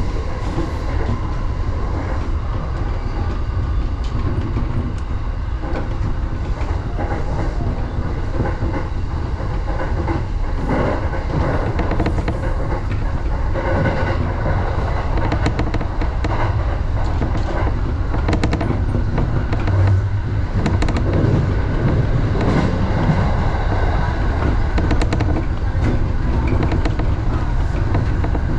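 Electric commuter train running on the rails, heard from inside the front cab: a steady rumble of wheels on track with a clickety-clack of rail joints and points, more marked from partway through.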